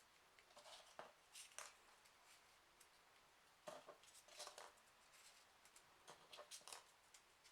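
Faint rustling and crinkling of folded printer-paper origami pieces being handled and slotted into the model, in three short clusters.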